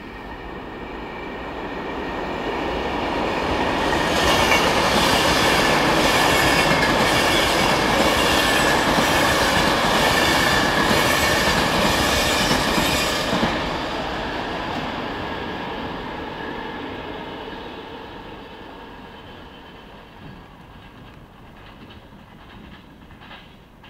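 Virgin Trains Class 390 Pendolino electric train passing through at speed. Its rush builds over the first few seconds, stays loud for about nine seconds with a regular clatter as the wheels of each carriage go by, then fades away as the train recedes.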